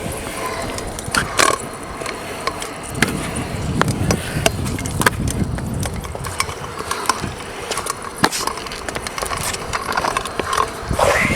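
Skatepark riding: small hard wheels rolling on concrete with a low rumble, broken by many sharp clacks and knocks of decks or scooters landing and hitting edges.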